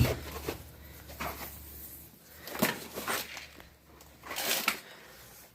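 Metal parts being handled and set in place: a knock at the start, sharp clicks and clanks about two and a half to three seconds in, and a short scraping rattle a little after four seconds.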